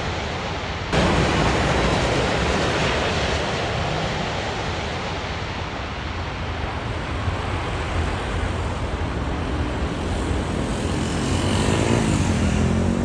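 Boeing 787-9 airliner's jet engines during landing, a steady broad roar. Near the end a road vehicle's engine revs up, rising in pitch.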